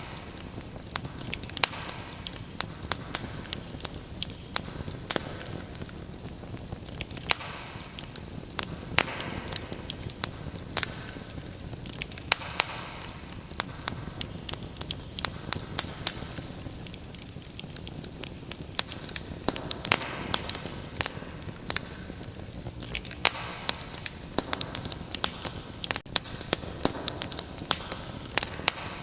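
Wood fire crackling: frequent irregular sharp pops and snaps over a low hiss.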